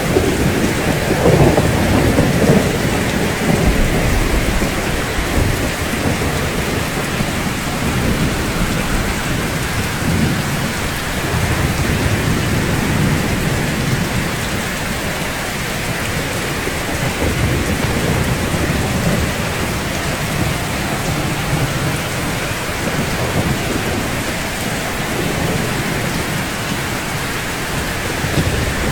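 Steady rain falling on a rooftop, with low rolling thunder rumbling underneath. The rumble is strongest in the first few seconds and swells again about ten seconds in.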